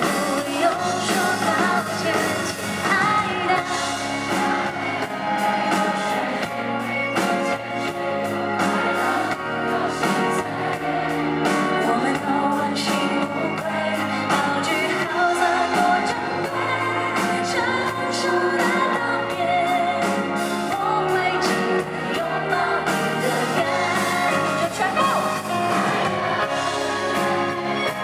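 A woman singing a pop song live over instrumental backing.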